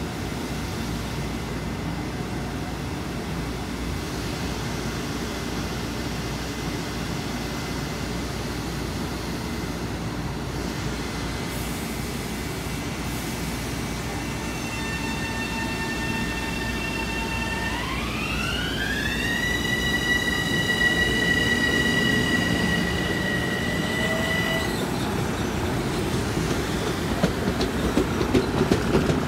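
LIRR M7 electric multiple-unit train moving past a station platform: a steady rumble of wheels on rail, with a high whine from its electric propulsion setting in about halfway, rising in pitch and then holding before it fades. Near the end the wheels click over rail joints as the last car passes.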